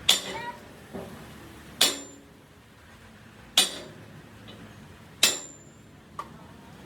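Hammer striking metal in a slow, even rhythm: four hard blows roughly every second and a half, each ringing briefly, with two lighter knocks in between.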